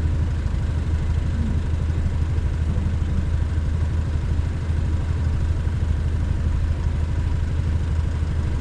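Motorcycle engine running steadily at low revs, an even low drone with no change in pitch.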